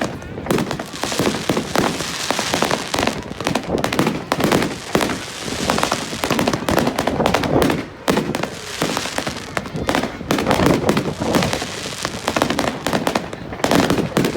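Fireworks display going off: a dense, continuous run of rapid sharp cracks and bangs.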